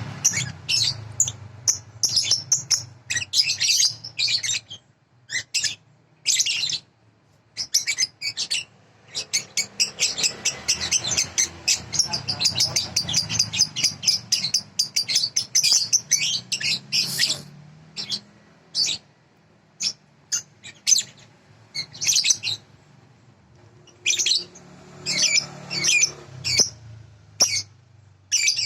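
Small bird singing: short bursts of high chirps, with a long rapid trill of about eight seconds in the middle, then scattered chirps again. It is a song-tutor recording played to young lovebirds for them to learn from.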